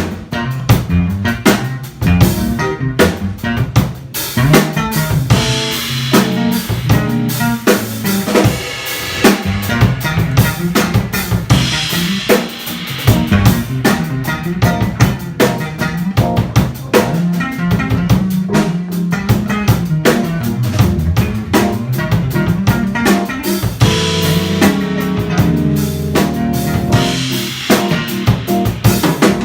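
Live jazz band playing, the drum kit to the fore with dense snare, rimshot and bass-drum hits and cymbal wash, over a moving bass line.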